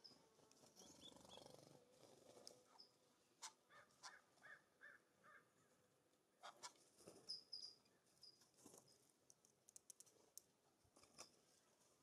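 Faint taps and clicks as a California Scrub-Jay pecks at a wire suet cage, with a short run of repeated notes about four seconds in and a few brief high bird chirps near the middle.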